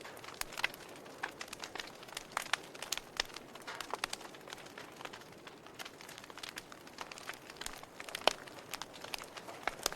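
Wood fire crackling in a fireplace: irregular pops and snaps over a faint hiss, with one louder pop about eight seconds in.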